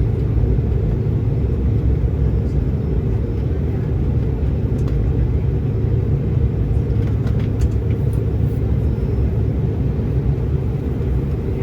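Jet airliner in flight: a loud, steady, low rumble of engines and rushing air that holds even throughout.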